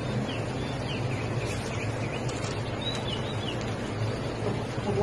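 Small bird chirping, a series of short high calls over a steady background noise.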